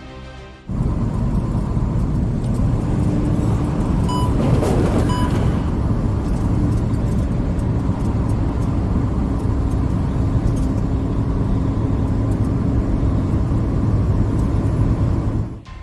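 Steady engine and road noise from a moving vehicle, as picked up by a dashcam, with two short electronic beeps about a second apart near the middle.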